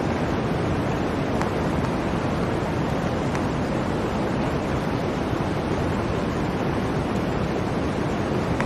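Blizzard wind blowing as a steady, even rush, with a couple of faint ticks.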